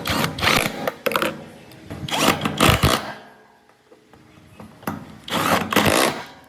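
Workshop tool noise in three bursts of about a second each, with quieter gaps between.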